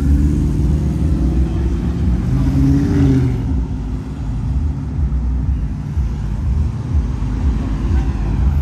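Cars driving past on a city street, with a steady low rumble of engines. About three seconds in, one engine's note rises and then falls as it revs.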